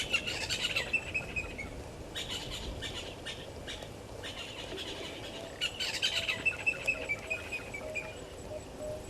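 Wild birds calling: a run of rapid chattering notes falling in pitch at the start, choppy calls around two to three seconds in, and another falling run near six seconds. A second bird repeats a lower note through the second half.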